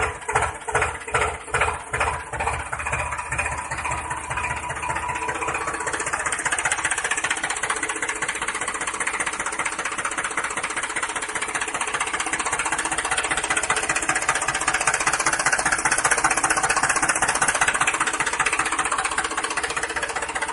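Small motor of a DIY model tractor with cultivator running. It opens with a regular knocking about three times a second, which gives way about three seconds in to a steady, even buzz that carries on.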